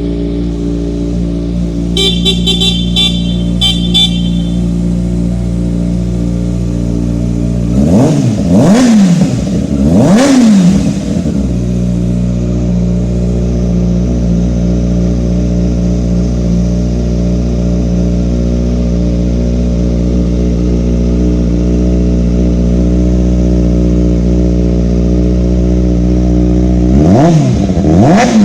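2019 Kawasaki ZX-6R 636 cc inline-four engine idling steadily and blipped up and back down: twice in a row about eight and ten seconds in, and again near the end. A series of short, high beeps sounds about two seconds in.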